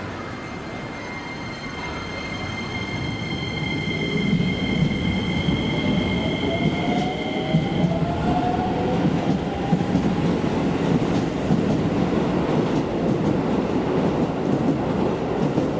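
Keisei Main Line electric train running through the station, its rumble growing louder about four seconds in and holding. Two steady high tones sound through the first half and stop about eight seconds in, and a whine rises in pitch in the middle.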